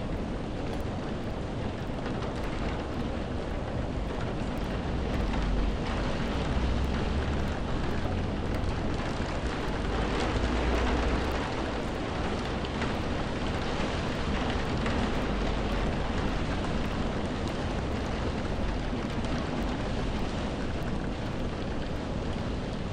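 Steady, heavy rain falling as a dense, even hiss. A low rumble swells in about a quarter of the way through and eases off again before the halfway mark.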